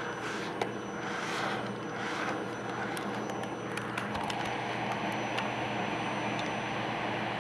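Vacuum cleaner running steadily, its motor giving a constant hum, with the suction rising and falling in several whooshes during the first two and a half seconds as the nozzle brush is drawn over a cat's fur. Small clicks are scattered throughout.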